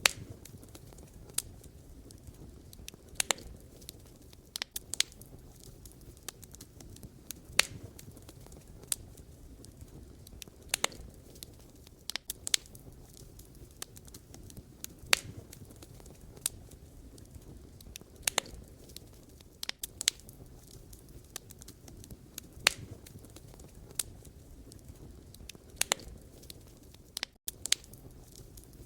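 Wood fire burning: irregular sharp crackles and pops of burning logs over a low steady rumble of flame.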